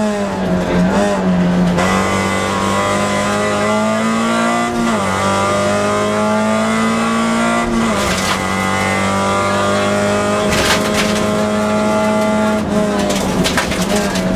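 A Toyota Yaris rally car's engine heard from inside the cabin, driven hard on a stage. The engine note climbs and falls back sharply about five and about eight seconds in, holds steady, then drops again near the end, with a few sharp knocks around ten seconds in and near the end.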